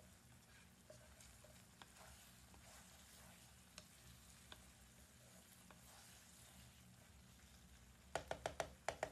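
Faint sizzling of food frying in a pan, with a few light scattered ticks. Near the end, a quick run of about six sharp taps.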